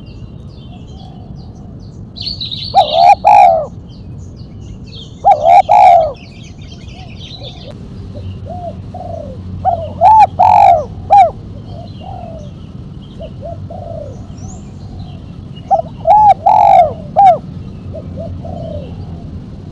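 Spotted dove (tekukur) cooing in the sharp, clipped 'mercik' style, with four loud phrases of short coos every few seconds. Fainter coos fall between the phrases, and small birds chirp high and faint in the background.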